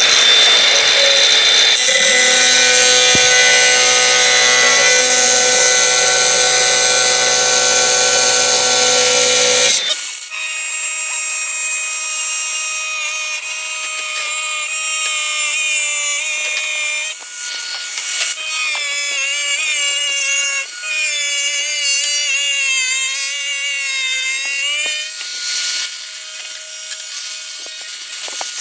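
Angle grinder with a diamond blade cutting porcelain tile: a loud, steady high whine for about ten seconds, then a quieter whine whose pitch dips and wavers as the blade works through the tile.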